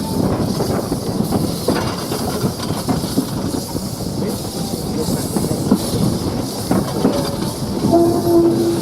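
Train running on rails, the wheels clattering steadily with a hiss above. A short steady tone sounds near the end.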